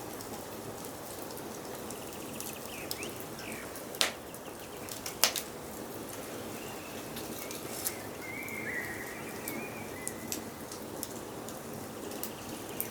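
Wood fire in a fireplace crackling steadily, with scattered pops and two sharper ones about four and five seconds in. Forest birds sing behind it: a few short chirps early on and a longer warbling call a little past the middle.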